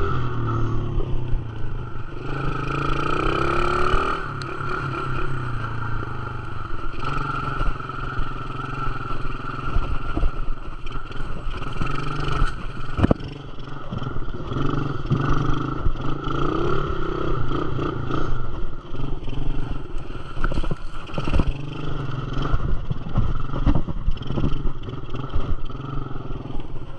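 Dirt bike engine running as the bike is ridden, its pitch rising and falling with the throttle, with a few sharp knocks and rattles along the way.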